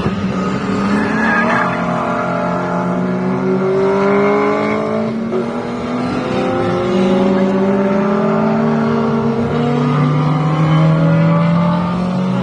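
Several classic racing cars' engines running hard on track, pitch climbing again and again as they accelerate, with one car going past close by about five seconds in.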